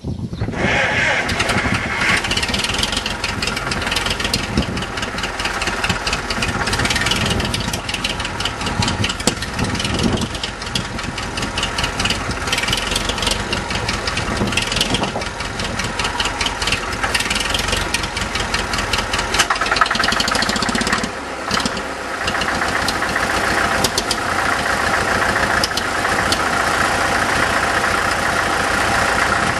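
Farmall Super MTA tractor's four-cylinder diesel engine starting right away and then running steadily with rapid firing, with a brief dip in sound about two-thirds of the way through.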